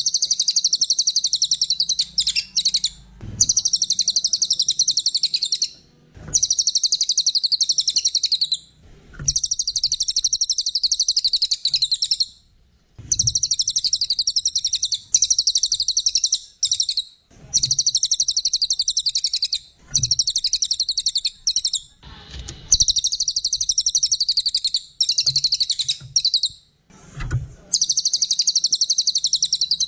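Cililin songbird singing loud, rapid, high-pitched trilling phrases of about two to three seconds each, repeated over and over with short pauses between them.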